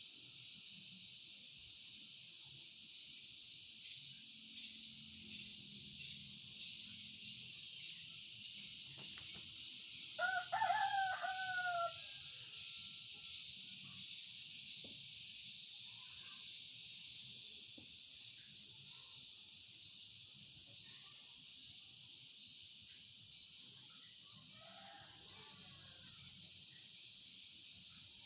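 A rooster crows once, a single falling call of about two seconds, roughly ten seconds in, with a fainter bird call later on. Throughout, a steady high-pitched drone of insects continues.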